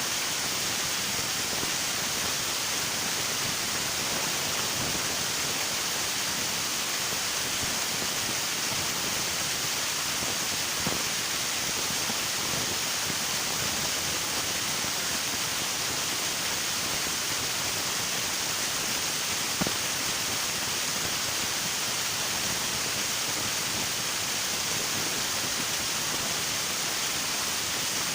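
River water rushing steadily, an even, unbroken flow. Two faint ticks stand out, about a third and two-thirds of the way through.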